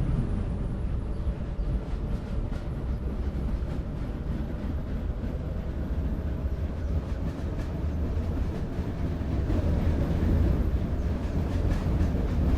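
Train running with a steady, continuous rumble and rail noise.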